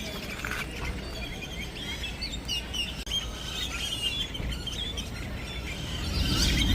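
A large flock of birds in one tree, chirping and calling over one another in a dense chorus, over a steady low rumble that grows a little louder near the end.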